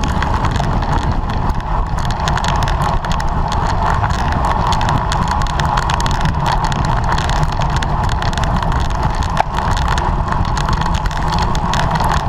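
Steady wind and road noise from a racing bicycle ridden fast, loud on the camera's microphone.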